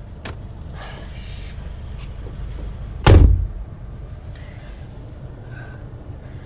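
A loud, heavy thump about three seconds in over a steady low rumble, with a sharp click near the start.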